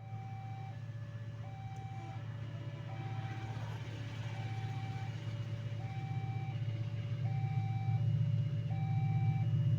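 Railway level-crossing alarm sounding its two-note electronic warning, high and low notes alternating about every 0.7 seconds, over the low rumble of the approaching coal train's diesel locomotive, which grows steadily louder.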